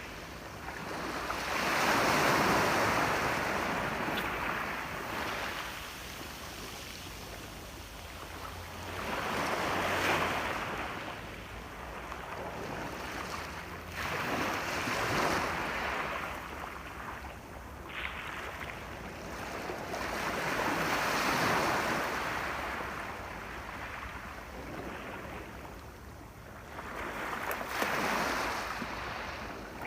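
Sea waves breaking and washing up on a shore, the surf swelling and fading about five times, every several seconds.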